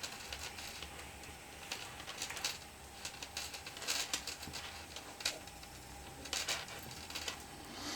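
Faint, scattered small clicks and rustles of a metal crochet hook and yarn as double crochet stitches are worked.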